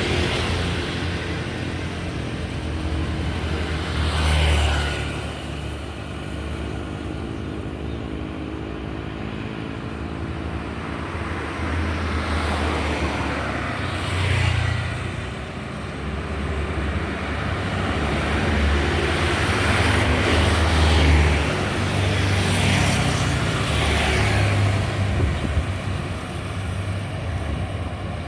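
Road traffic: a steady low engine rumble, with several vehicles passing close by one after another. Each pass swells and fades within a second or two, the loudest about four seconds in and around twenty seconds in.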